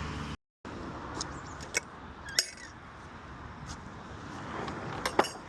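Outdoor background noise with a handful of sharp, irregular clicks and knocks, two of them close together near the end.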